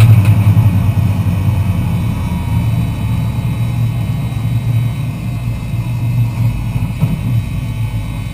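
Lancia Delta Integrale's turbocharged four-cylinder engine running at low, steady revs, heard from inside the stripped cabin, gradually getting quieter as the car slows.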